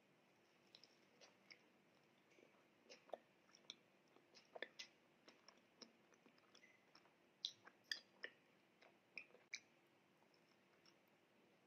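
Close-miked chewing of a soft strawberry cream milk bun: faint, irregular wet mouth clicks and smacks, a little stronger about two-thirds of the way through.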